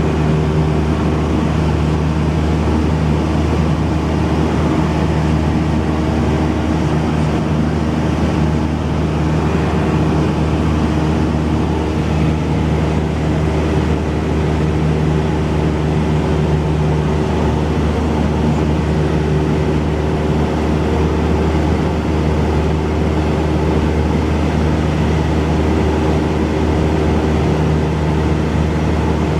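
Cessna 172's piston engine and propeller running steadily in flight: a continuous drone of a few steady tones that swell and fade slightly over several seconds.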